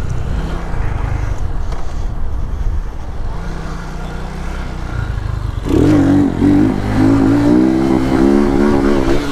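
Small motorcycle engine running with a low rumble, then revving hard from about six seconds in, its pitch rising and falling with the throttle.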